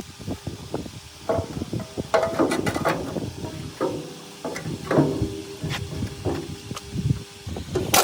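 Irregular clanks and knocks of metal parts and tools being handled and struck during workshop work on a machine, some hits ringing briefly.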